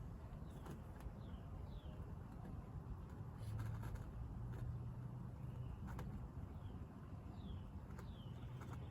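Faint bird chirps, short falling notes heard in two pairs, about a second in and again near the end, over a low wind rumble on the microphone and a few light clicks.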